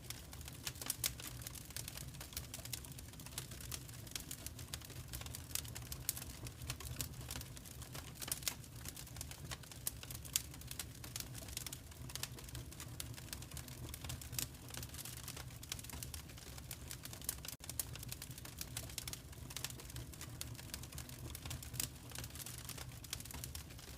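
Wood fire crackling: a dense, irregular run of sharp crackles and pops over a low, steady rumble.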